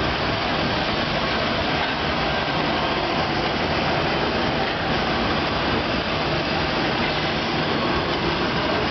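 Passenger train hauled by an EP2K electric locomotive rolling into the station: a steady, even rumble and rush of wheels on the rails.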